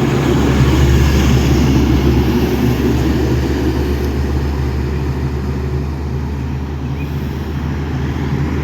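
Heavy truck passing on a highway: a steady low engine and tyre rumble that swells about a second in, then slowly eases.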